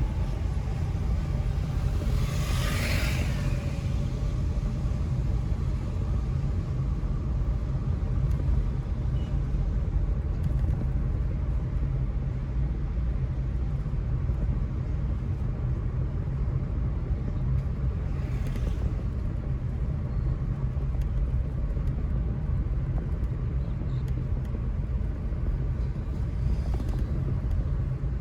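Steady low road rumble of a car driving through city streets, with a brief swell of passing traffic noise about three seconds in and fainter ones later.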